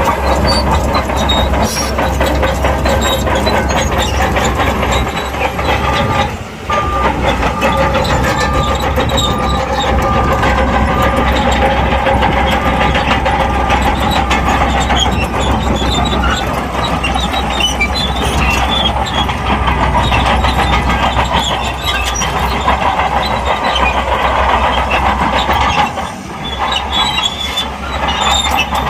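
Shantui crawler bulldozer working, its diesel engine running steadily under the clanking and squealing of its steel tracks. The sound dips briefly twice, about six seconds in and near the end.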